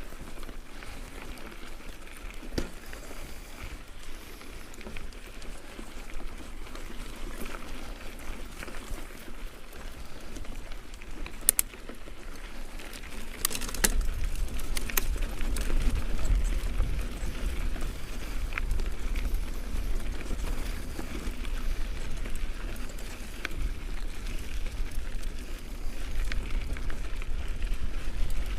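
Mountain bike tyres rolling over gravel on a climb, a steady crackling crunch with scattered sharp clicks and pops. About halfway in a strong low rumble comes in and stays, making the rest louder.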